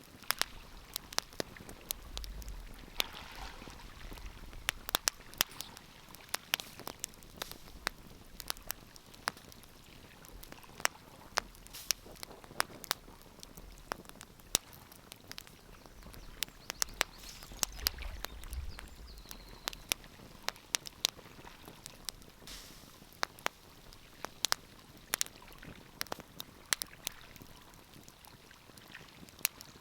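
Wood fire crackling: irregular sharp pops and snaps, several a second at times, over a soft steady hiss.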